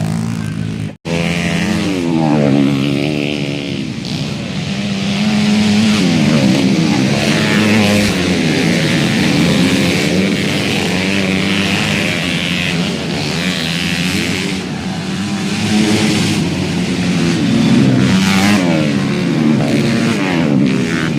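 Motocross dirt bike engines revving hard, their pitch rising and falling again and again as the bikes accelerate and shift, with several engines overlapping. The sound cuts out for an instant about a second in.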